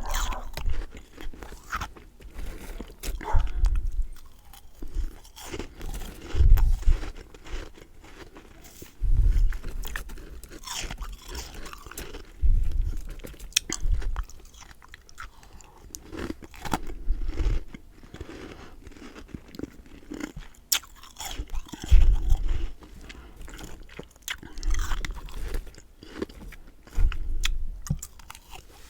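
Close-miked chewing and crunching of freezer frost: a dull bite every couple of seconds, with crisp crackling as the frost breaks up in the mouth.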